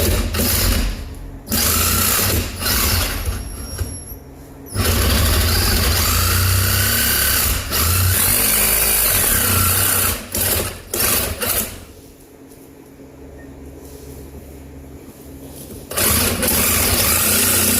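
Power cutting tool cutting through a steel part on a pickup's rear axle, run in repeated bursts of several seconds with short pauses between.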